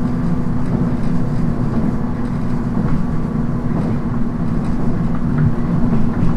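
Interior running sound of a 719 series AC electric multiple unit at speed: a steady rumble of wheels on rail with a constant hum of several steady tones.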